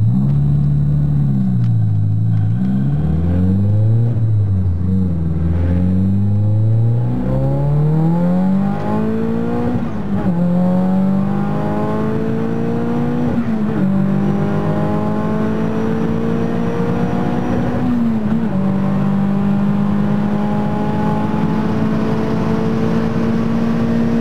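Nissan 200SX S14a's ECU-remapped, 411 hp turbocharged SR20DET four-cylinder under hard acceleration, heard from inside the cabin. Its pitch rises and falls several times, then climbs steadily through the gears with three quick drops at the gear changes, about ten, thirteen and eighteen seconds in.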